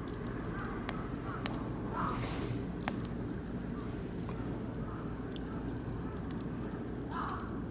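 Oak and beech wood fire crackling, with frequent sharp pops and ticks over a steady low rumble. Two short calls sound in the background, about two seconds in and near the end.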